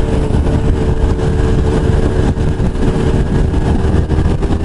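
Sport motorcycle engine running at a steady cruise, its pitch holding even, under a rush of wind and road noise.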